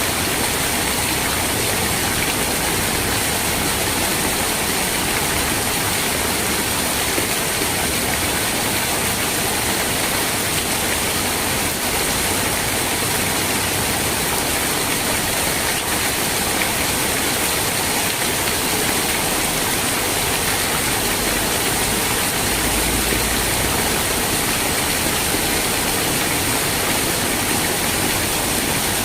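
Steady rain, an even hiss of water with no single drops standing out.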